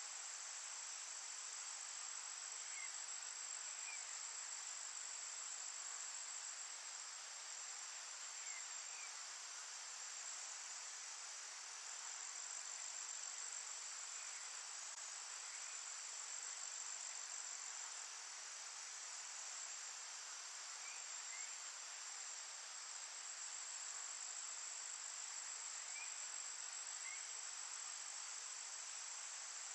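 Steady insect chorus trilling without a break, with a high, even tone on top. A faint paired chirp repeats about every five seconds.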